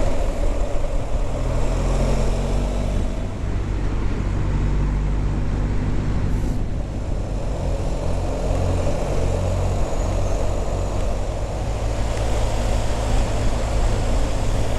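Motorcycle running steadily at road speed, its engine a low continuous drone under wind rushing over the microphone.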